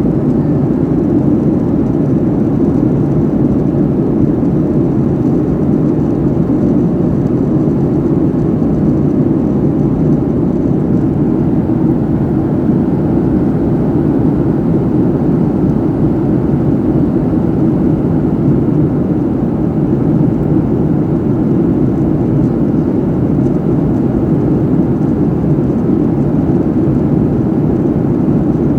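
Passenger airliner cabin noise: the steady, even rush of the jet engines and airflow heard from inside the cabin, deep and unchanging.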